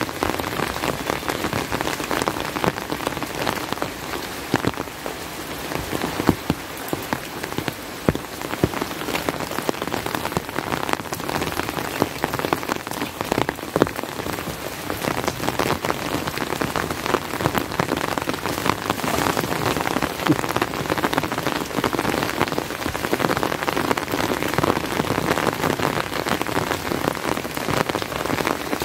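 Steady rain, with many separate drops striking close by as sharp ticks over a dense, even hiss.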